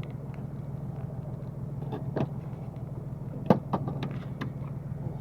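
Fishing boat's engine running steadily with a low drone, with a few knocks and clatters on top, the sharpest about three and a half seconds in.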